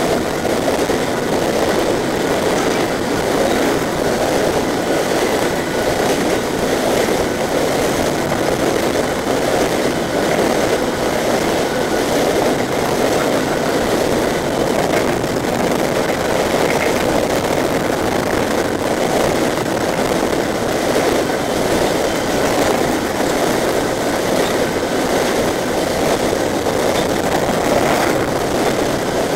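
Empty open-top coal cars of a freight train rolling past at speed: a steady rumble of steel wheels on rail.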